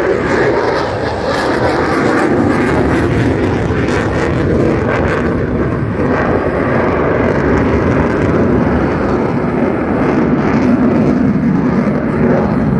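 F-22 Raptor fighter jet's twin F119 afterburning turbofan engines: a loud, steady jet roar as it flies its display manoeuvres.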